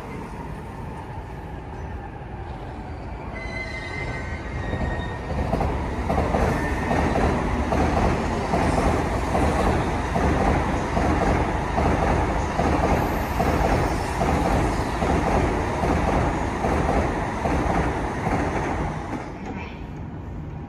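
Electric trains running on rails: a JR commuter electric multiple unit pulls away with a brief whine, then a long, loud rumble of wheels on track, with rapid clacking, builds from about four seconds in as a Shinkansen runs past. The sound drops off abruptly near the end.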